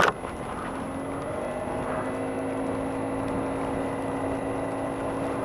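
2007 Honda Ruckus scooter's 49cc four-stroke single-cylinder engine running under throttle, its pitch climbing over the first two seconds and then holding steady, over a hiss of wind noise.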